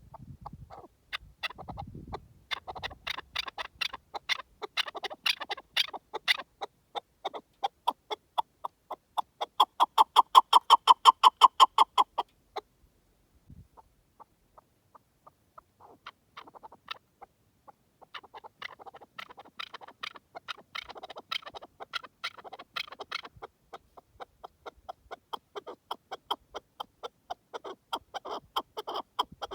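Partridge calling: long runs of rapid, repeated clucking notes that build to their loudest about ten seconds in, break off for a few seconds, then start up again in another long run.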